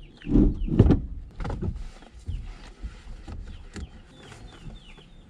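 Towel wiping the inside of a car window, with rubbing and handling noise and short squeaks. There are a few heavy thumps in the first two seconds.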